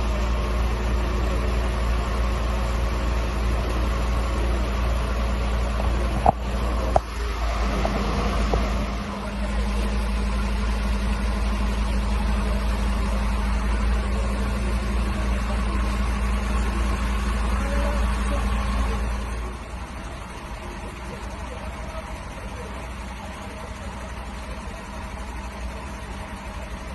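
A fire truck's engine idles with a steady low rumble and hum, with two sharp knocks about six and seven seconds in. About two-thirds of the way through, the rumble drops to a much lower level.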